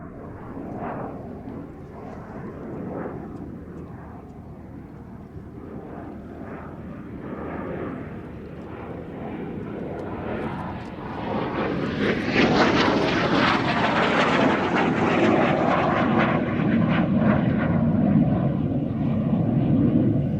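F-86 Sabre jet and DH.88 Comet piston-engined racer flying over in formation. Their engine noise is moderate at first, then swells from about ten seconds in and stays loud near the end.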